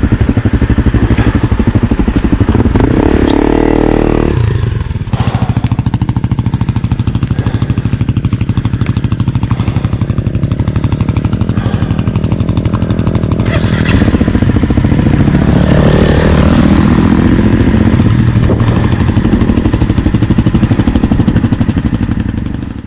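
Honda CRF250L's single-cylinder four-stroke engine running under load, with rapid even firing pulses. The revs climb about three seconds in, drop sharply just after four seconds, and rise again from about fourteen seconds.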